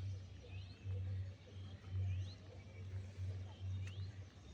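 A bird calling: a short, quickly rising note repeated about every second and a half, over a low, uneven rumble.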